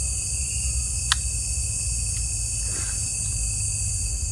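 Night insect chorus of crickets: a steady, unbroken high trilling at several pitches over a low rumble. A single sharp click about a second in.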